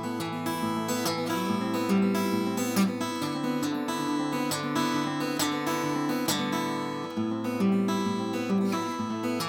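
Steel-string acoustic guitar being played, a run of strummed chords and picked notes.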